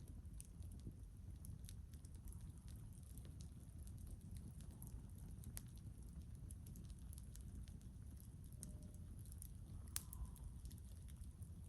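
Wood campfire crackling faintly, with scattered sharp pops, two of them louder about halfway through and near the end, over a steady low rumble.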